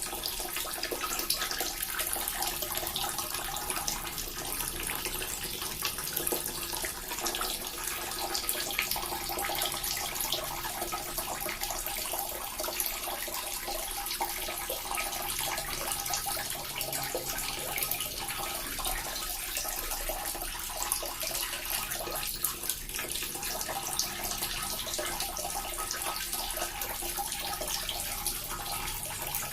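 Small water fountain running steadily, water splashing and trickling without pause.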